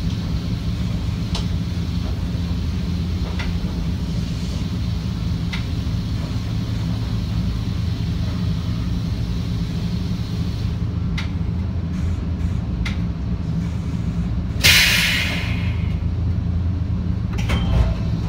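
Steady low rumble and hum of an electric commuter train creeping into a terminus, with occasional clicks from the track. About fifteen seconds in, a sharp hiss of compressed air lasting about a second as the train comes to a stop.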